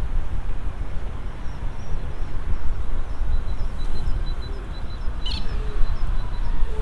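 Small birds chirping in short, high, repeated notes, with one louder call about five seconds in, over a steady low outdoor rumble.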